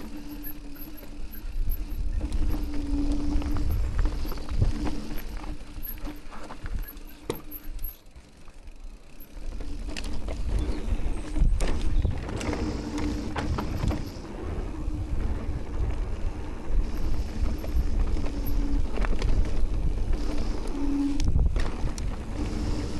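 Electric mountain bike with a DJI drive unit being ridden over a trail: a low rolling rumble with frequent knocks and rattles from the bike. A steady low hum drops out and returns several times, and everything goes quieter for a moment about a third of the way in.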